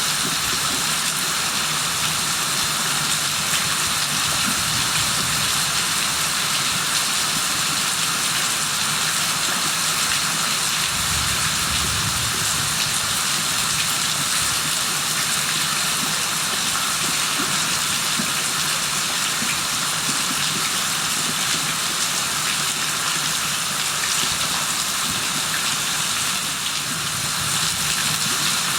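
Rain falling steadily, a constant even hiss of drops that does not let up.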